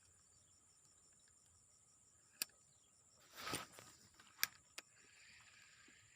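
Insects chirring steadily and high-pitched, faint. Three sharp clicks and a brief rustle fall in the middle.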